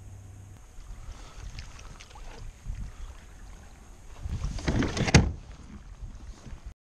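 Handling sounds of a fishing kayak on the water, low at first, then a louder rustle ending in one sharp knock about five seconds in; the sound cuts off suddenly just before the end.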